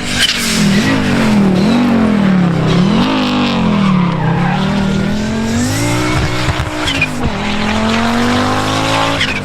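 Historic rally car at full throttle, engine pitch rising and dropping several times in quick succession as the driver lifts and changes gear, then climbing steadily in a long pull through the second half.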